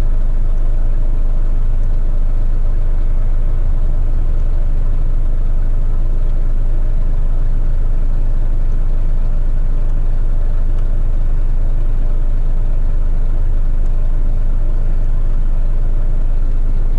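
Heavy rigid rubbish truck's diesel engine running steadily, a constant low drone heard from inside the cab.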